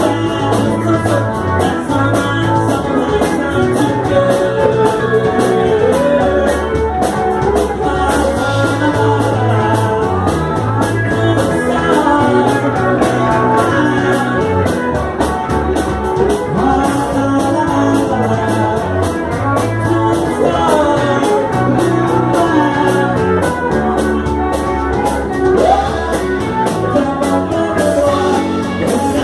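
A rock-and-roll band playing, with guitar, a steady bass line and drums.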